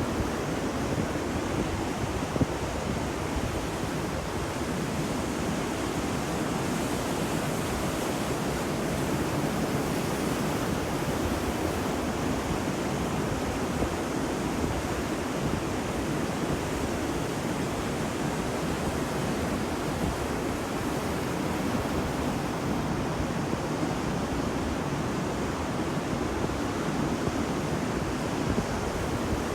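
Ocean waves washing on a beach, a steady continuous surf with no single break standing out.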